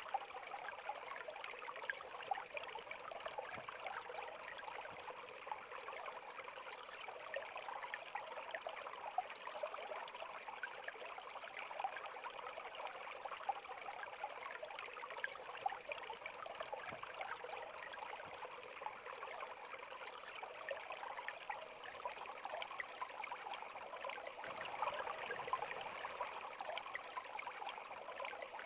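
River water flowing steadily over stones, a continuous splashing babble with many small sharp splashes.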